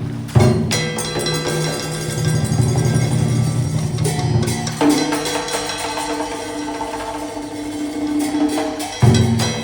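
Traditional Vietnamese ensemble music accompanying a water puppet show: drum and wood block strokes over sustained melodic instrument lines, with sharp new entries about half a second in, near five seconds and near the end.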